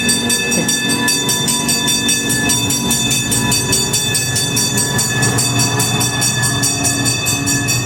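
Cog railway train running, a continuous mechanical hum with steady high whining tones and a fast, even pulsing over it.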